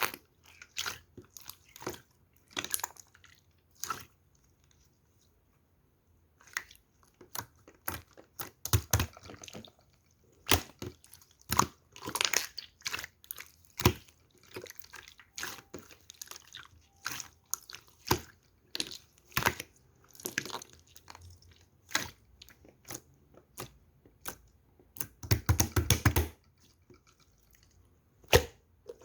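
A soft material being squished and pressed, making irregular sticky pops, clicks and crackles, with a denser crackling run about a dozen seconds in and a loud cluster of pops near the end.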